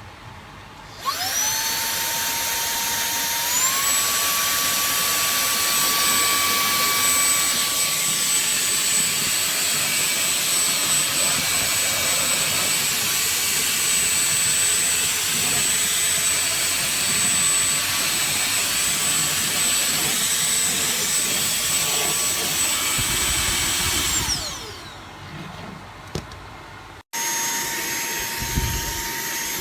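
Cordless handheld vacuum cleaner switched on: its motor whine rises quickly, steps up to a higher pitch a couple of seconds later, and runs steadily. It then winds down, and after an abrupt break it is running again near the end.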